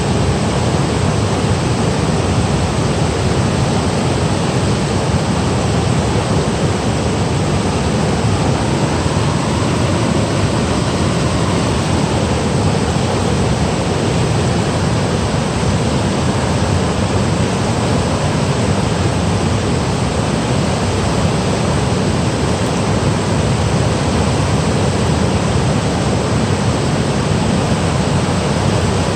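Mountain valley stream rushing over rocks and small falls: a loud, steady, unbroken rush of water.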